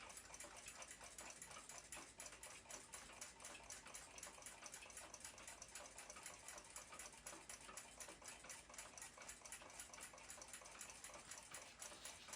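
Faint, rapid, even ticking of a running clock escapement, several ticks a second.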